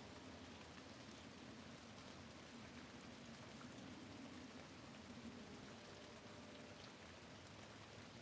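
Faint, steady rain with scattered light ticks of drops striking.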